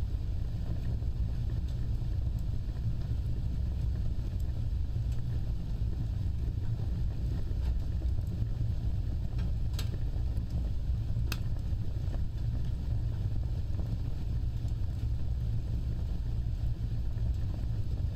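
Wood fire burning with a steady low roar of flames, and a couple of sharp crackles about a second and a half apart midway.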